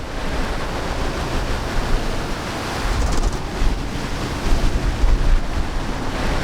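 Strong squall wind gusting over the microphone, with the sea rushing and breaking along a sailboat's hull as it runs before the wind.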